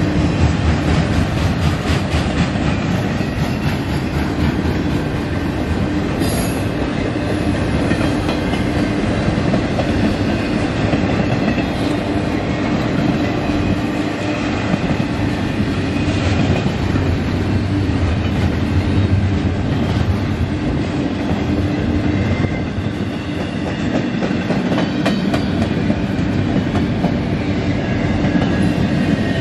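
Double-stack intermodal well cars of a freight train rolling past at close range: a steady rumble and clatter of steel wheels on the rails, with a thin high wheel squeal now and then.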